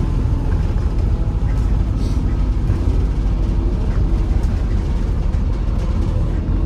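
Inside a MAZ-203 city bus under way: steady low engine and road rumble, with a few light rattles.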